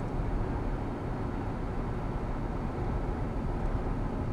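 Freight train's hopper cars rolling past over a grade crossing: a steady low rumble of steel wheels on rail.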